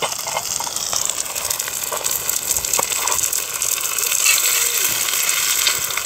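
Batter-coated sea bass frying in oil over a wood fire: a steady sizzle with scattered small pops.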